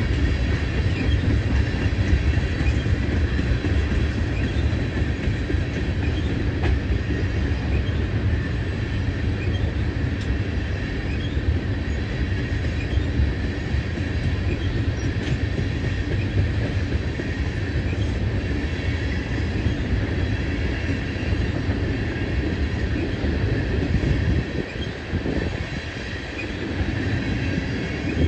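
Railroad tank cars of a freight oil train rolling past: a steady rumble of steel wheels on rail, with faint high wheel squeal now and then.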